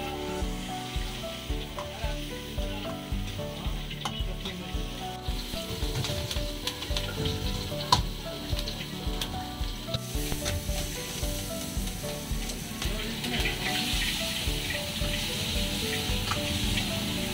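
Vegetables sizzling in hot oil in an iron wok as they are stir-fried, with the ladle clicking and scraping against the pan. The sizzle grows louder in the second half. Background music with a steady beat plays underneath.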